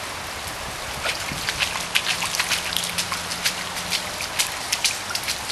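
Pouring rain hissing steadily, with close, irregular drops pattering sharply from about a second in.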